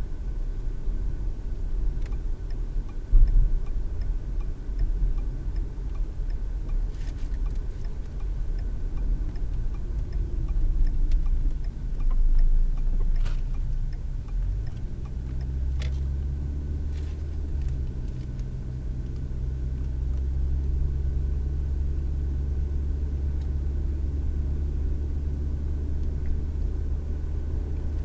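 Car interior noise picked up by a dash cam: low engine and road rumble that settles into a steadier, deeper hum about halfway through, with faint regular ticking and a few light clicks.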